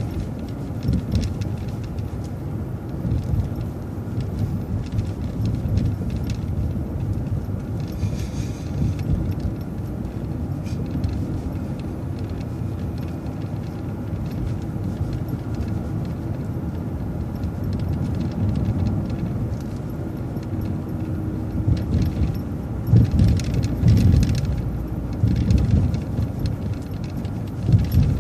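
Inside a moving city bus: steady low engine and road rumble with rattling from loose fittings, with a few louder bumps and jolts near the end.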